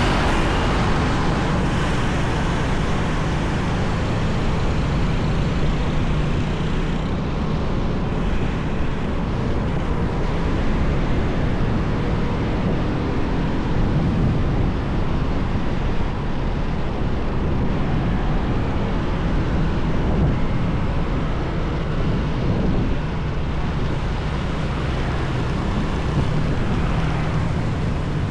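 Motorbike riding along a busy highway: steady engine and road noise with surrounding traffic, without pause.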